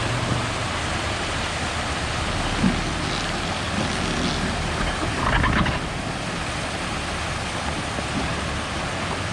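Vehicle engine running under a steady hiss of noise, with a brief louder rustle about five seconds in.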